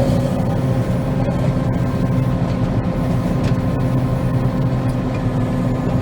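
Combine harvester running steadily while cutting soybeans: an even machine drone with a constant tone above it.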